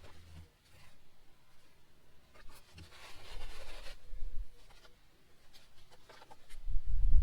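Light scratching and rubbing on a plastic interior trim panel as permanent-marker ink is worked in and wiped, with a denser rubbing stretch midway and a low bump near the end.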